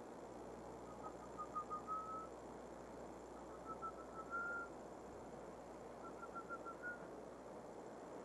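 A bird whistling three short phrases, each a quick run of five or six clipped notes that climb slightly and end on a longer held note, over a steady low hiss.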